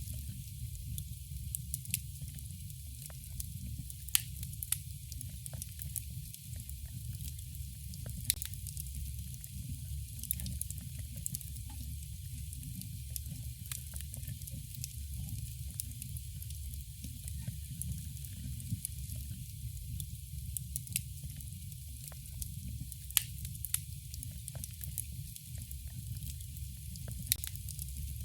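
Campfire burning: a steady hiss with frequent sharp crackles and pops, the strongest about four seconds in and near the end, over a low rumble.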